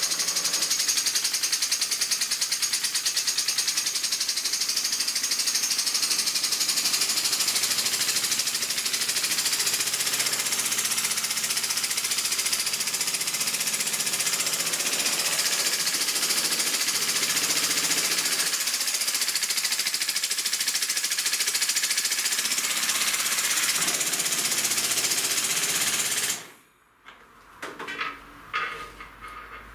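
Wooden single-cylinder compressed-air engine running fast: a rapid, even clatter under a strong hiss of escaping air from its leaky inlet slide valve. It cuts off suddenly near the end, followed by a few light clicks and knocks.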